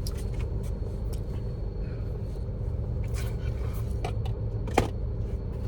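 A steady low rumble runs underneath small eating sounds: chewing and utensil clicks, with one sharper click just before the end.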